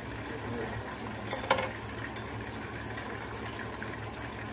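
Hot oil sizzling steadily in frying pans as egg-battered cauliflower florets and chicken pieces fry. One sharp knock about a second and a half in.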